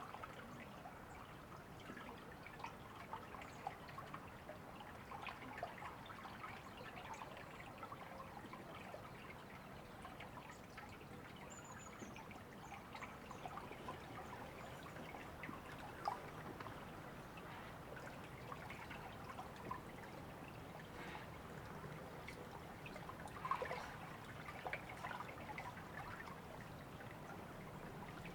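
A river trickling and babbling steadily, with small splashy crackles running through it.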